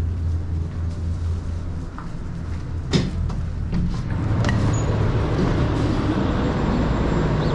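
Truck engine running at idle, with a sharp click about three seconds in; the engine sound grows louder about a second later.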